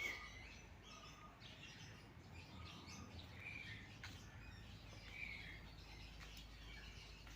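Faint bird chirping: short, scattered calls a second or so apart over a low, steady background rumble.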